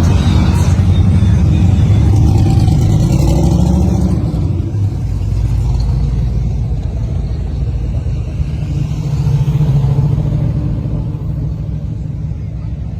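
Loud classic muscle car engine running on the street, strongest for the first few seconds, then easing off, swelling briefly again later and fading near the end as the car moves away.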